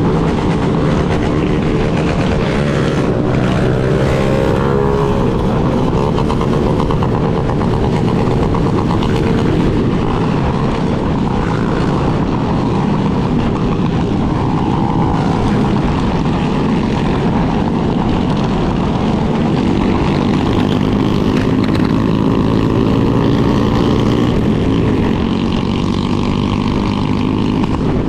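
Yamaha Lander 250's single-cylinder engine running as the motorcycle rides along, its pitch rising with the throttle a few seconds in and again later, over a steady low rumble.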